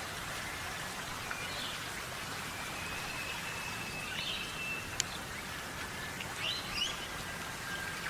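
Wild birds giving scattered short chirps and thin whistles over a steady hiss, with one sharp click about five seconds in and a quick run of chirps near the end.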